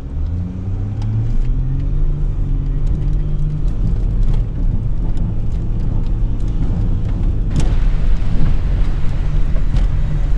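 Four-wheel drive's engine revving hard under full throttle, climbing a soft sand track with a run-up. The note rises over the first couple of seconds and then holds high, and rougher noise, typical of tyres churning sand, builds about three-quarters of the way through.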